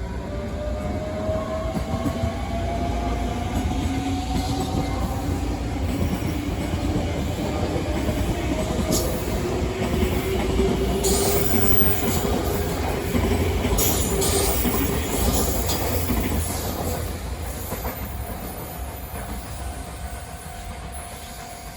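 An electric train passing close by: a steady motor whine that rises slowly in pitch, and wheels clicking over the rail joints, loudest in the middle of the pass, before the sound fades away.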